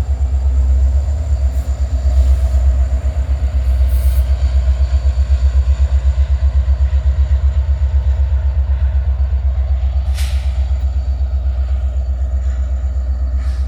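Norfolk Southern helper set of diesel locomotives running light, a loud, deep engine rumble with a fast, even pulsing beat. A short hiss sounds about ten seconds in.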